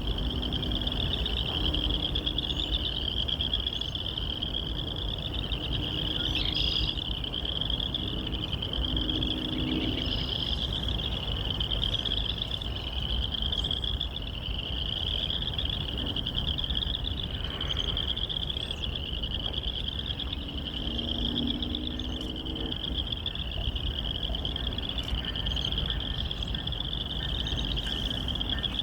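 A continuous chorus of calling animals: a dense, high trill that pulses in repeating waves about every second and a half. A steady low rumble runs underneath, with faint low tones for a few seconds early on and again past the middle.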